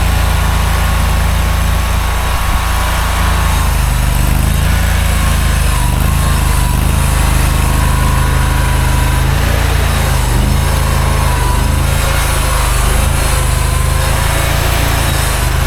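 Mini skid steer's engine running steadily at working throttle, the pitch dipping briefly a couple of times as it takes load.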